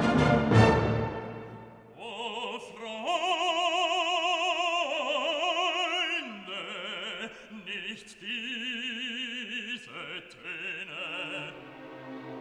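Operatic singing with a strong vibrato, holding long notes that step up and down, over orchestral accompaniment; a loud orchestral chord dies away in the first two seconds.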